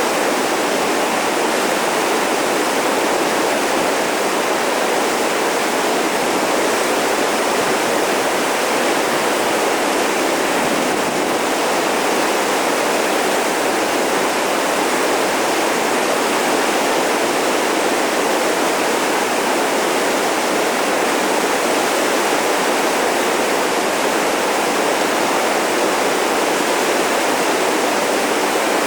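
Whitewater rapids rushing in a loud, steady, unbroken roar of water.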